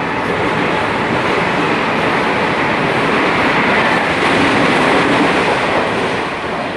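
Train moving past close by on the rails: a loud, steady rush of wheel and carriage noise that eases off near the end.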